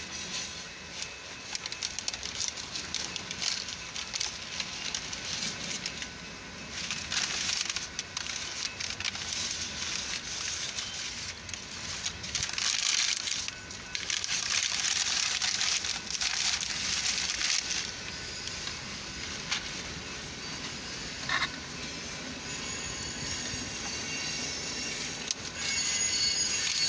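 Freight train cars rolling past a grade crossing: steady rumble and clatter of steel wheels on the rails, with surges of metallic screech and a short squeal past the middle. Heard from inside a stopped car.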